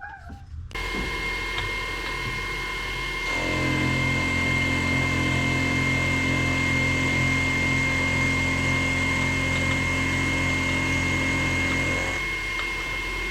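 Manual milling machine starting up about a second in and running steadily with a constant high whine; from about three seconds in until near the end a louder, deeper motor hum joins, then drops away while the spindle keeps running.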